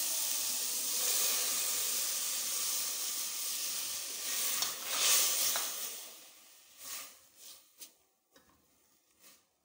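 Onions and chopped tomatoes sizzling in ghee in an aluminium pot, stirred with a spatula. The sizzle swells about five seconds in as tomato puree goes in, then dies away to a few scrapes of the spatula.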